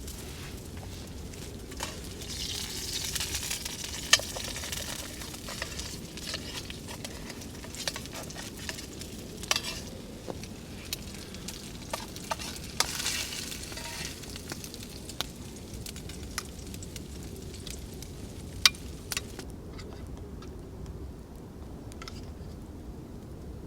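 Food sizzling in a pan being stirred. The sizzle swells twice, with scattered sharp clicks of a utensil against the pan.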